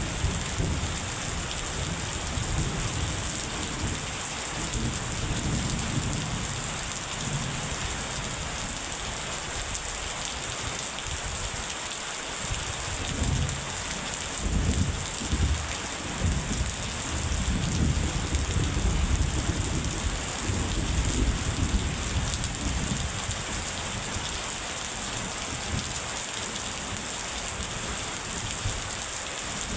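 Steady rain falling with rolling thunder rumbling underneath. The rumbles die down briefly about twelve seconds in, then swell again twice.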